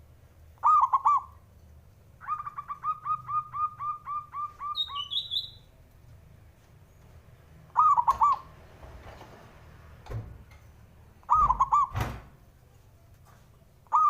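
Zebra dove (perkutut) calling: short rolling three-note coos repeated several times, and a quick run of about a dozen clipped notes ending in a higher note. Two knocks near the end.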